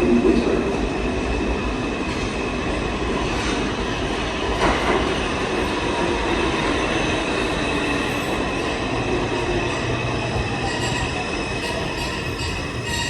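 New York City Subway 4 train pulling into the station, its wheels squealing in several steady high tones over the rumble and clatter of the cars. It is loudest at the start, then settles to a steady level as the train slows.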